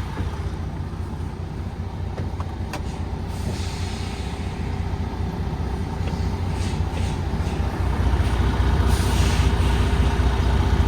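MAN TGX 18.510 truck's inline-six diesel engine running as the truck backs slowly toward a loading dock, growing louder about eight seconds in. Twice there are short hisses of air from the air brakes.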